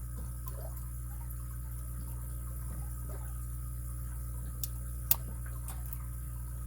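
Lock pick and tension wrench working the pins of a heavily sprung padlock: a few faint metallic ticks and one sharper click about five seconds in, over a steady electrical hum.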